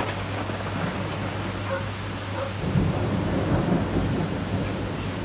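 Heavy rain pouring in a thunderstorm, with a low rumble of thunder that swells about two and a half seconds in.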